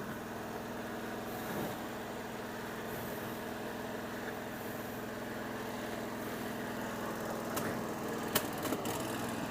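Garden tractor's small engine running steadily, with a few sharp clicks near the end.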